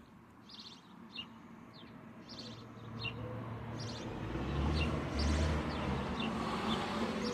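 Small birds chirping in short, repeated calls, while a low rumbling noise builds up from about three seconds in and runs on to the end.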